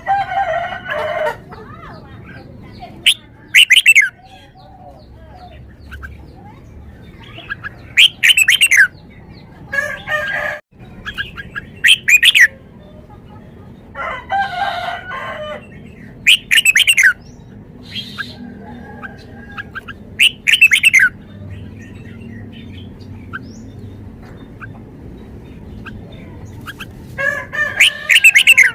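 Red-whiskered bulbul singing: short, loud phrases of quick falling whistled notes, coming every couple of seconds, with a longer pause in the second half.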